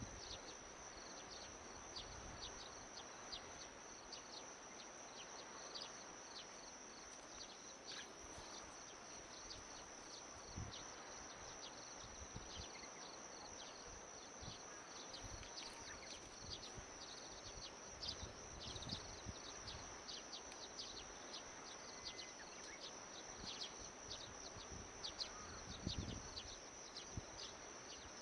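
Faint, steady high-pitched insect chorus, with many short chirps over it and a few soft low knocks.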